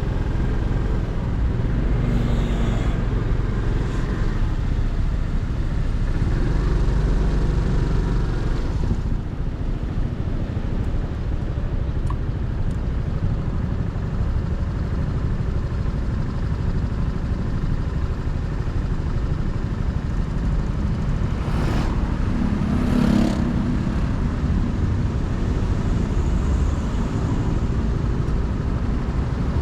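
Motorcycle engine and road noise while riding in traffic: a steady low rumble, with a brief louder swell a little over 20 seconds in.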